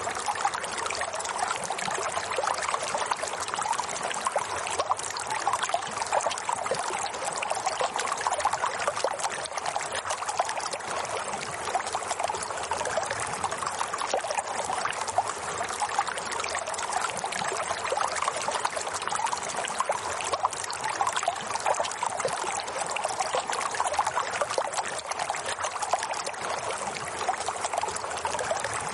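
Running water flowing steadily, with no pause or change in level.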